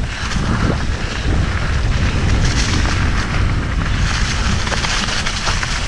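Wind buffeting the camera microphone with a heavy low rumble, over the rattle and tyre noise of a mountain bike descending a rough trail.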